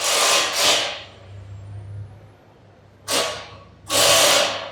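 Three bursts of hissing noise: one about a second long at the start, then a short one about three seconds in and another about four seconds in, with a low steady hum in between.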